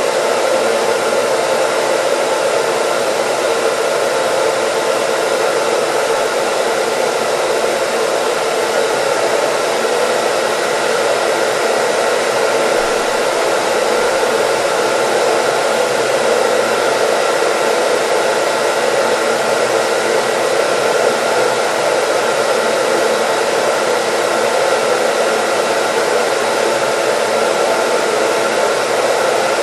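Hair dryer running continuously: a steady rush of blown air with a faint constant whine, unchanging throughout.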